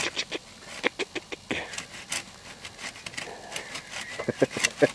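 Hand saw cutting into a log in short, uneven strokes that keep catching, the blade binding in the cut.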